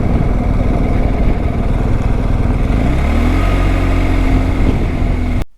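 Motorcycle engine running under a heavy, steady rush of riding noise; about three seconds in, its note rises as the bike accelerates. The sound cuts off abruptly near the end.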